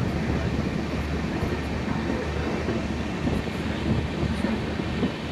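Diesel-hauled passenger train running, heard from on board: a steady rumble of the coach and wheels on the track over a low, continuous drone.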